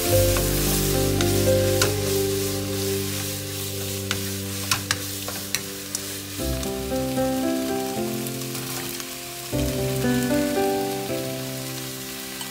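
Green onions and then squid sizzling in oil in a nonstick wok, stirred with a wooden spatula that gives a few sharp clicks against the pan in the first half. Background music plays underneath.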